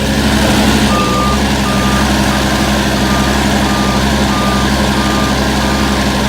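The engine of a GMC forestry bucket truck running steadily, with a truck warning beeper sounding a repeated high beep about one and a half times a second, starting about a second in.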